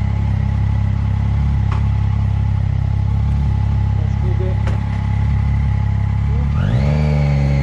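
Motorcycle engine running steadily, then revving up with a rising pitch near the end as it accelerates.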